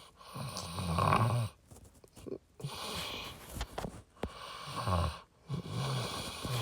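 A man's low, indistinct voice in a few short stretches with pauses between.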